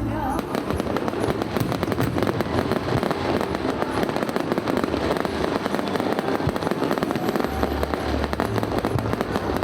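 Fireworks going off in quick succession: a dense, continuous run of crackling pops and bangs.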